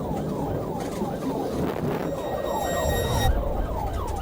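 Police car siren in a fast yelp, about three to four falling sweeps a second, over the steady rumble of the car's engine and tyres at speed. A high steady tone joins about two seconds in and cuts off suddenly a little after three seconds.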